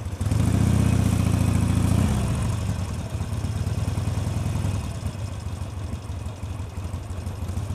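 Motorcycle engine running in slow stop-and-go traffic, louder for the first two seconds or so, then settling to a steadier, quieter run, heard from a microphone inside the rider's helmet.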